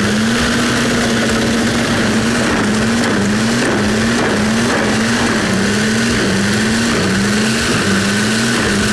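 Wood chipper's engine running hard, its pitch sagging briefly and recovering again and again, about once a second, as it lugs under the load of the wood being fed through.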